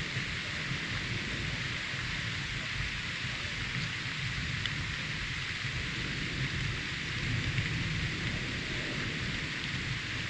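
Steady rain in a thunderstorm: a continuous even hiss with a low, uneven rumble underneath.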